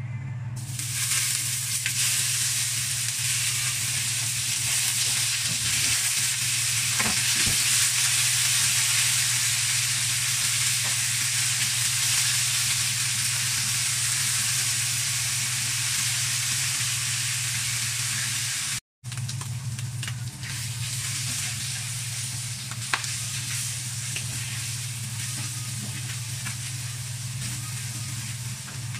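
Sliced pork belly sizzling as it fries in a hot non-stick wok, starting as the pieces drop in, with occasional light taps and scrapes of a spatula stirring them. A steady low hum runs underneath. The sound drops out briefly at a cut about two-thirds through.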